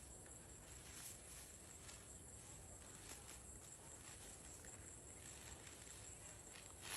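Near silence: faint outdoor background noise with a steady high hiss and a few brief faint rustles.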